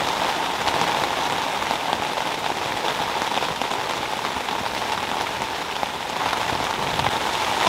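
Steady rain: a dense, even hiss dotted with many fine drop ticks.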